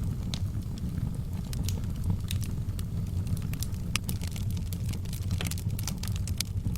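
Wood fire burning in a fireplace: a steady low rumble of the flames with irregular sharp crackles and pops from the logs, coming thicker a little past the middle.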